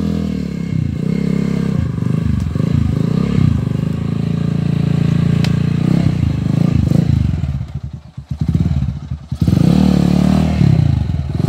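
Motorcycle engine running and being revved, its pitch stepping up and down over several seconds; it drops away briefly about eight seconds in, then rises again.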